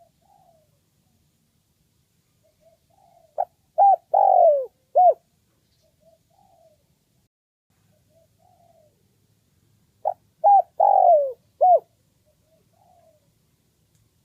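Spotted dove (Streptopelia chinensis) singing its cooing phrase twice, about six seconds apart: each a quick run of four coos, the third one drawn out and falling. Softer, fainter coos come between the two phrases.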